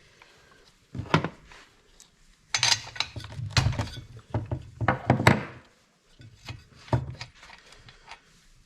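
Husqvarna 345 chainsaw's recoil starter pulled several times in a row, the engine spinning over without catching or running: a no-start even with fuel squirted straight into the carburettor.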